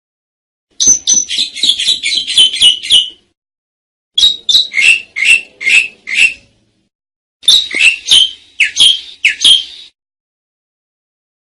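Pied starling (jalak suren) calling in three bursts of rapid, repeated short falling notes, about four a second, each burst two to three seconds long with brief pauses between.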